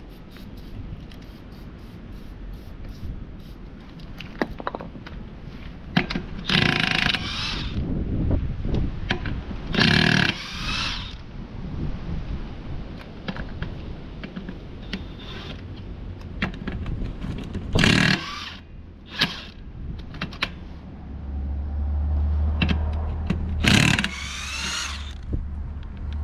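Impact wrench spinning lug nuts off the rear wheels, in about five separate runs of a second or so, its whine rising and falling. A low steady rumble comes in near the end.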